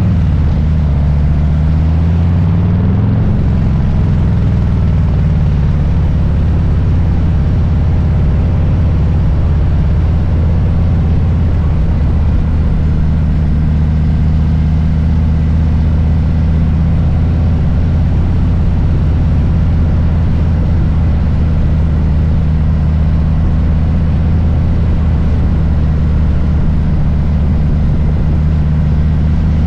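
Harley-Davidson Low Rider S's Milwaukee-Eight V-twin running under way. Its pitch rises as it accelerates over the first few seconds, then holds a steady, even rumble.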